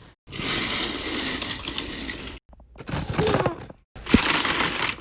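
Train crash sound effect: three loud bursts of crashing and clattering noise, each cut off abruptly.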